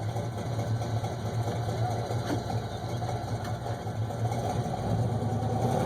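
Pickup truck engine running steadily, with a low, evenly pulsing exhaust note.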